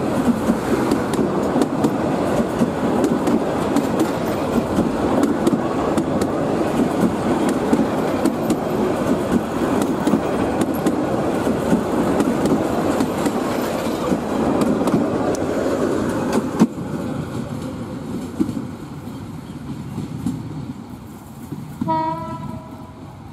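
Passenger train coaches rolling past close by on meter-gauge track: a steady rumble with wheels clattering over the rail joints, fading about two-thirds of the way through as the last coach moves away. A short horn note sounds near the end.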